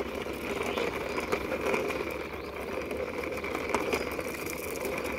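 Toy car pushed along by hand, its plastic wheels rolling with a steady whirring rattle.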